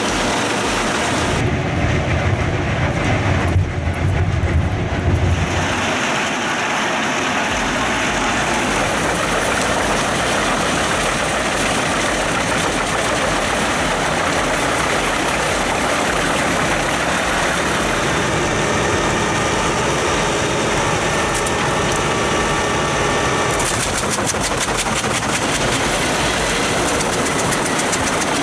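Pezzolato PTH 1400/1000 Allroad self-propelled wood chipper, Volvo-engined, running loudly and steadily while working. A heavier low rumble comes in about a second and a half in and lasts about four seconds.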